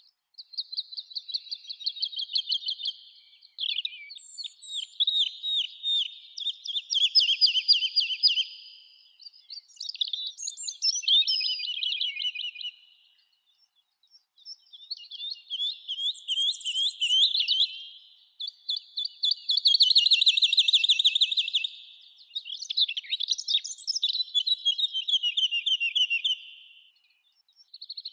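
Songbirds singing in a summer forest: a run of fast trilled song phrases, each a few seconds long, separated by brief pauses.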